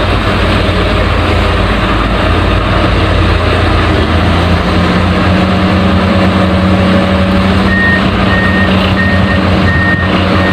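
Heavy diesel construction machine's engine running steadily. From about eight seconds in, a reversing alarm beeps about twice a second.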